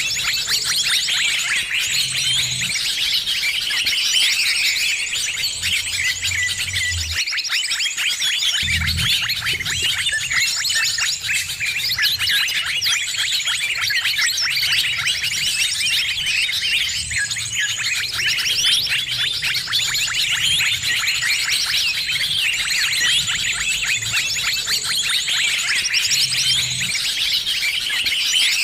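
Dense, unbroken chorus of many small birds chirping and twittering rapidly over one another, a noisy bird-lure (pikat) recording meant to draw in birds of all kinds.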